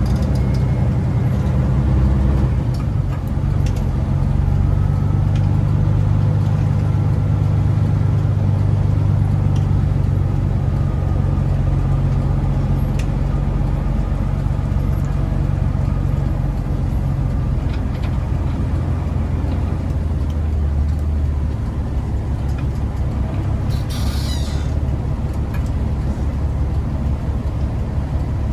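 Big rig diesel engine running under way, a steady low drone that eases off about halfway through. A short hiss of air, like an air brake, about 24 seconds in.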